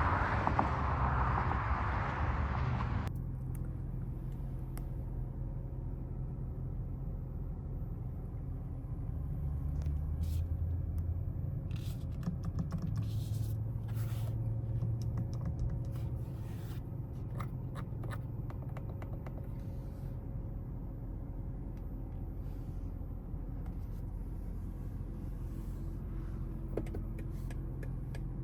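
For the first three seconds, loud car driving noise cuts off suddenly. After that comes a steady low hum inside the BMW X2 M35i's cabin, with scattered small clicks like buttons and switches being pressed.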